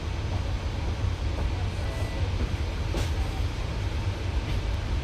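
Scania K94UB bus's diesel engine running with a steady low rumble. A single sharp click about three seconds in.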